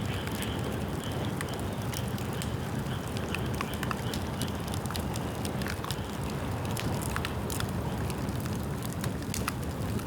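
Bamboo bonfire burning: a steady low rush of flame with frequent sharp crackles and snaps scattered through it.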